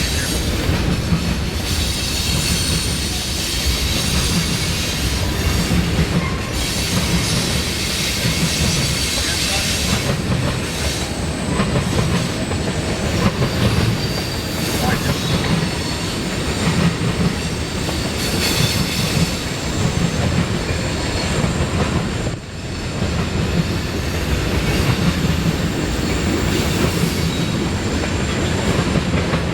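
Freight train cars rolling past, a steady rumble and clatter of wheels on the rails with a high-pitched wheel squeal over it. There is a brief dip in the noise about three-quarters of the way through.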